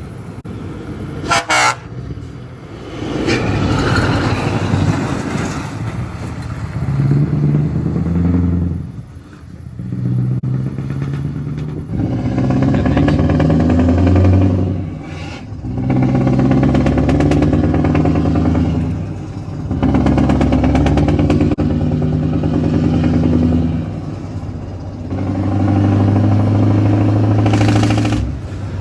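Scania R520's 16-litre V8 diesel through an open, straight-through exhaust, pulling hard and climbing in pitch through the gears, with short drops in level at each of about five gear changes. A brief sharp high sound comes about a second and a half in.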